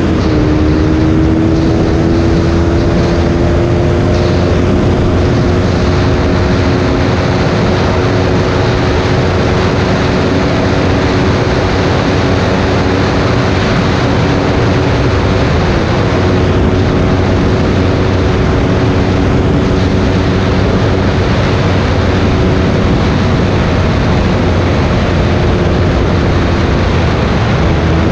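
Honda 100 motorcycle engine running steadily while riding, with a steady rush of wind and road noise behind it. The engine's pitch dips briefly about half a second in and again around the middle.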